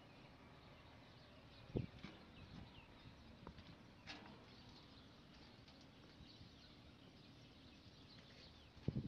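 Faint outdoor ambience with small birds chirping now and then, and a single sharp knock about two seconds in.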